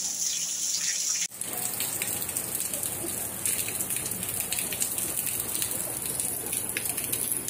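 Heavy rain pouring down, a steady hiss of falling water. About a second in the sound drops out for an instant and returns fuller, as a second recording of downpour begins.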